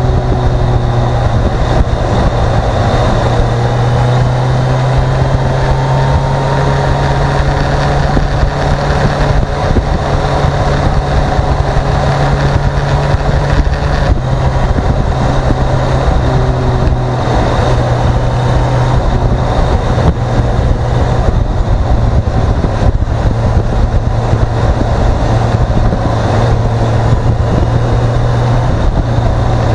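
Motorcycle engine running steadily while riding, with a continuous rush of noise over it; the engine note steps down a little about halfway through.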